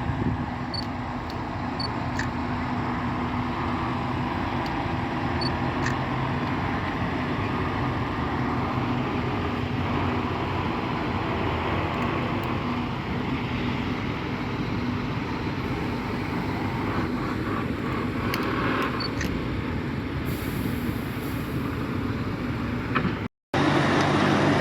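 Heavy lorries' diesel engines running as the trucks move slowly past, a steady low rumble. The sound cuts out for a moment near the end and comes back a little louder.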